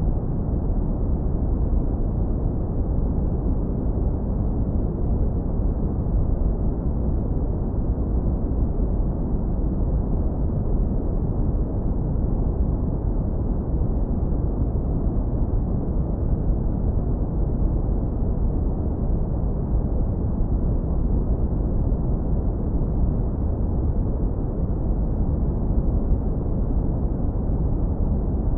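Synthetic brown noise, heavily low-pass filtered so only a deep, warm rumble remains: a steady, unchanging hiss-free roar with nothing above the low-mids.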